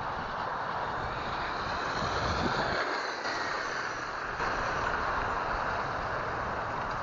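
ECX Amp MT electric RC monster truck driving, its motor whining faintly over a steady hiss.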